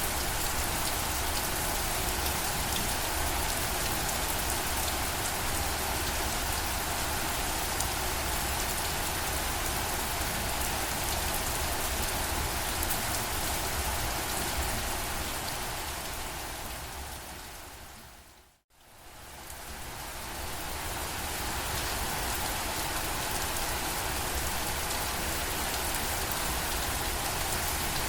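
Steady rain falling. About two-thirds of the way through it fades down to silence for a moment, then fades back up to the same steady rain.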